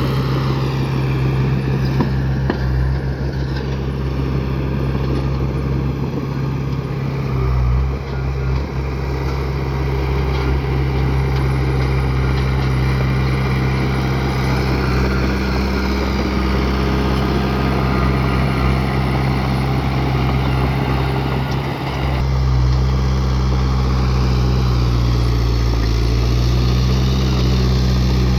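Heavy diesel engine of earthmoving machinery running steadily under load. The engine note shifts and grows slightly louder about three quarters of the way through.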